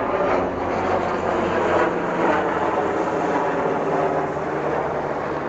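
Military helicopter passing, its engine and rotor making a steady drone that eases off slightly near the end.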